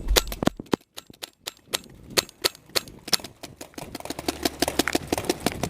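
Paintball markers firing: a rapid, uneven string of sharp pops, several a second.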